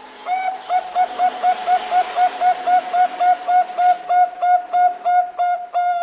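Perkutut bangkok (zebra dove) cooing: a fast run of about twenty short, even coo notes, roughly four a second, running into a longer drawn-out note at the end.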